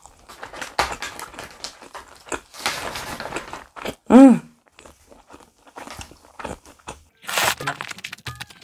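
Mouth sounds of chewing grilled pork ribs, with a short, loud hummed vocal sound that rises and falls about four seconds in. Near the end comes a loud slurp of cold naengmyeon noodles.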